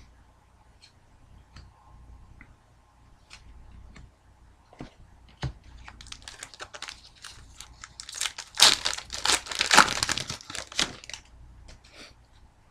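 A foil trading-card pack wrapper being torn open and crumpled, crinkling and crackling in a dense run that is loudest a little past the middle, after a few faint clicks.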